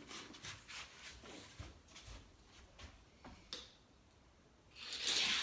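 A die-cast toy car on a plastic race track: light scattered clicks and a sharper tick, then a louder rising rattle near the end.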